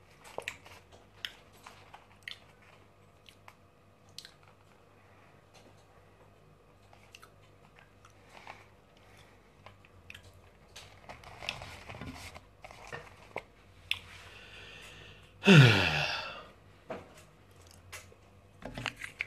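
Close-up chewing of fried potatoes, with soft wet mouth clicks and light crunches. About fifteen seconds in, a short, loud vocal sound from the eater that falls in pitch.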